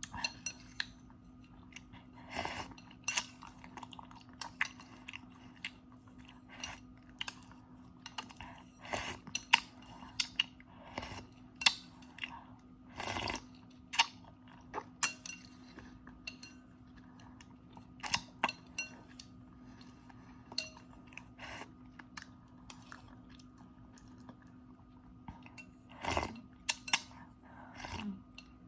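Close-miked eating of instant noodles: irregular chewing and crunching, with short clicks of cutlery against a bowl, over a faint steady hum.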